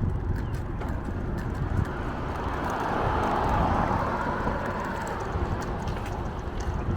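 Wind buffeting the microphone and rolling road noise on a bicycle ride. A passing vehicle's tyre noise swells and fades about three to five seconds in.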